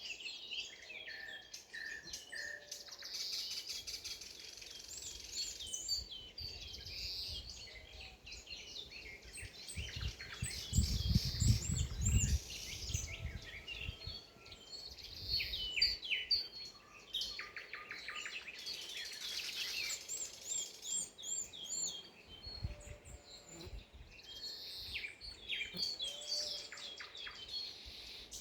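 Several songbirds singing at once: overlapping chirps, trills and quick whistled phrases that keep going throughout. About ten seconds in, a low rumble lasting two or three seconds is the loudest sound.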